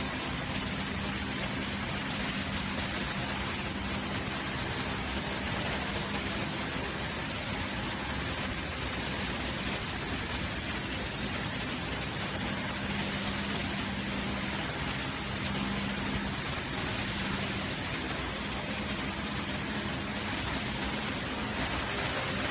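Steady factory machinery noise: an even hiss over a constant low hum, unchanging throughout.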